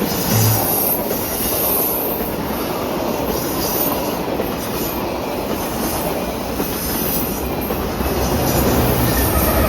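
Train rolling along the track: a steady rumble and rattle of railcars on the rails.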